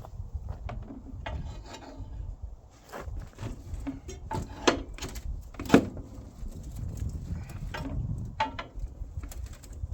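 A pry bar working at a stuck air filter on a Deutz diesel engine: scattered metal clinks, knocks and scrapes, with two sharp clanks about five and six seconds in.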